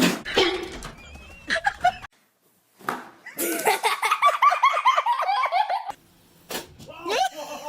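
High-pitched laughter in rapid repeated bursts lasting a couple of seconds.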